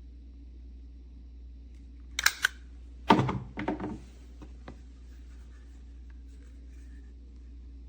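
Two sharp clicks, then a short clatter of hard objects knocking together and one last small tick, over a low steady hum.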